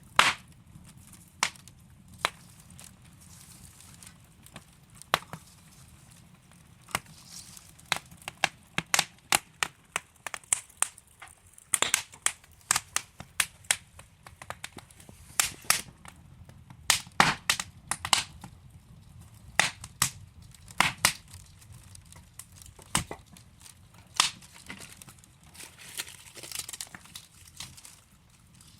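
Wood fire crackling: burning logs popping and snapping in irregular sharp cracks, a few louder pops among many small ones, over a faint low hiss of flame.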